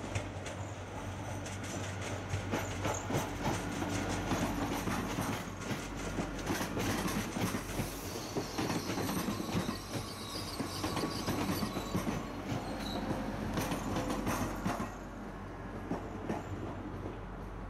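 TGV Réseau high-speed trainset rolling slowly over the station's points and crossings, its wheels clattering over the rail joints and frogs with a few brief squeals. The clatter fades about fifteen seconds in as the train draws away.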